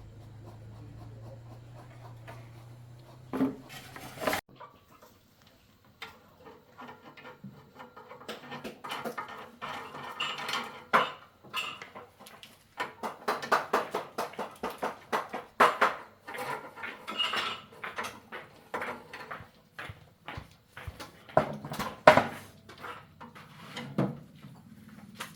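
Metal tools and engine parts clinking and tapping in quick, irregular strokes with a ringing edge. A low steady hum runs under the first four seconds and cuts off.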